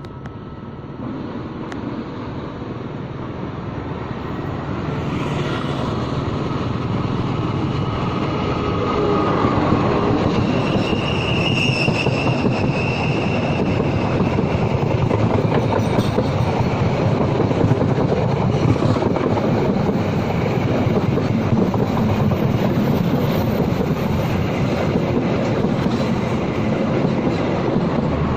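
Passenger train approaching and passing close by: the rumble of wheels on rail grows louder over the first ten seconds, then holds as a steady clatter of passing carriages. A brief high wheel squeal about twelve seconds in.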